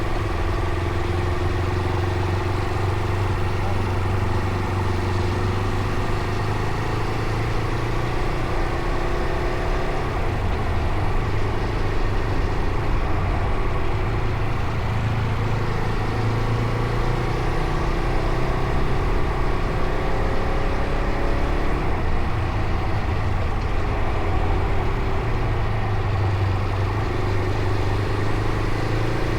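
Fantic Caballero Rally 500's single-cylinder engine running on the move, its pitch rising and falling slowly with the throttle.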